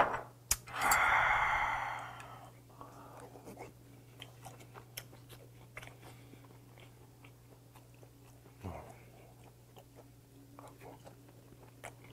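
A glass shot glass clicks down on the table, then a loud breathy exhale follows the soju shot for about a second and a half. After that comes quiet chewing of soft raw pen-shell scallop, with small mouth clicks and light chopstick taps.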